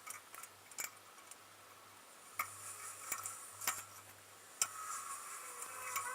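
Irregular sharp metallic clicks and taps of hand tools working on a drum brake assembly, about five over a few seconds, while the wheel cylinder is being removed.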